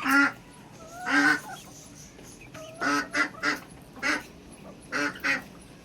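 Domestic waterfowl honking: about eight loud, pitched honks, some coming in quick pairs or threes.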